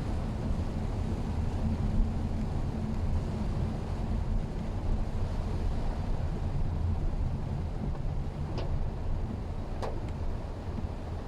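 Mitsubishi Xpander driving: a steady low rumble of engine and road noise, with two faint clicks near the end.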